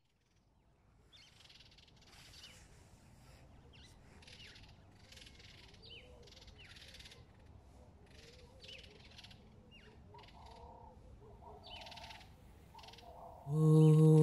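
Faint bird calls repeating about once a second, each with a short pitch glide. Near the end a loud, steady hummed vocal begins: the opening of a relaxing nasheed.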